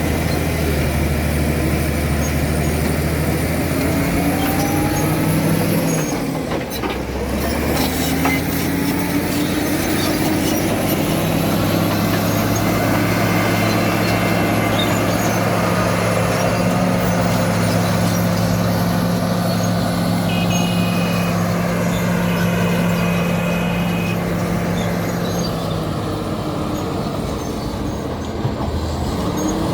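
Caterpillar D7 bulldozer's diesel engine running under load. Its note shifts several times in the first eight seconds, then holds steady.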